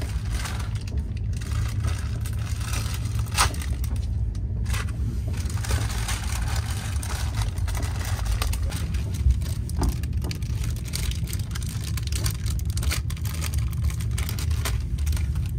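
Steady low rumble of a passenger train running, heard from inside the coach, with plastic snack packets crinkling and scattered short clicks over it.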